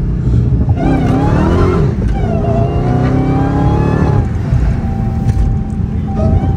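Dodge Charger Hellcat's supercharged V8 accelerating hard, heard from inside the cabin: the engine note rises in two pulls with a gear change about two seconds in, then eases off after about four seconds.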